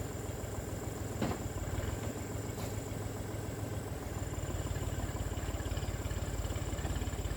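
Tractor engine idling with a steady, even chugging, just after being started. A sharp knock sounds about a second in.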